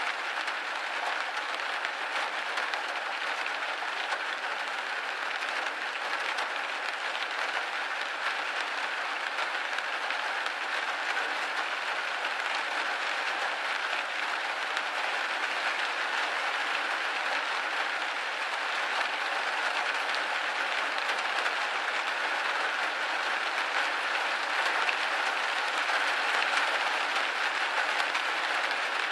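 Steady rain pattering on a window pane: a dense, even patter of drops.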